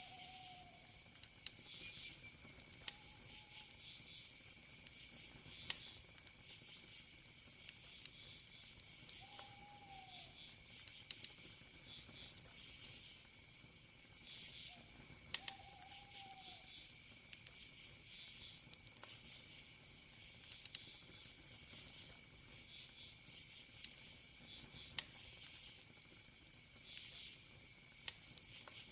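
Campfire of burning wood crackling, with scattered sharp pops, over a steady high chirring chorus of crickets. A few short, faint, arching calls sound lower down.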